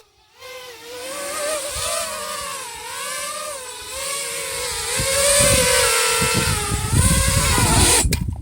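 FPV racing quadcopter's electric motors whining, the pitch rising and falling with the throttle. A low rumble builds through the second half, and the sound cuts off sharply near the end.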